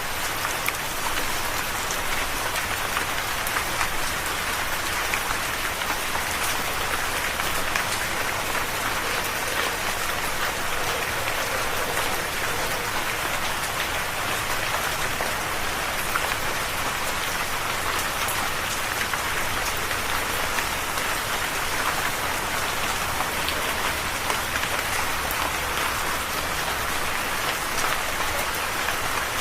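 Steady rain falling, a dense even hiss of drops with many small individual patters.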